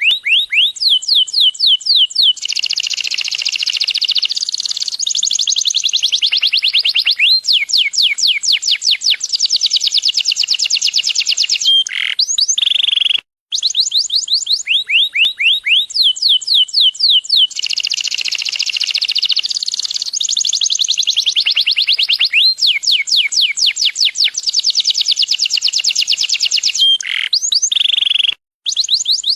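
Domestic canary singing: fast runs of sharp, high notes that sweep downward, about four a second, alternating with dense rolling trills. The song cuts out twice for a moment, and the same passage then starts over.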